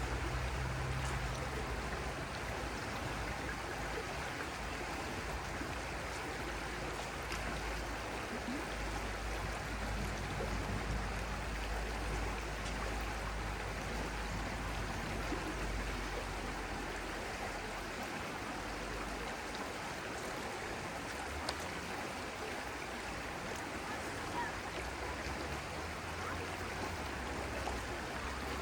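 A stream running, a steady even rush of water, with a low rumble that rises and falls underneath.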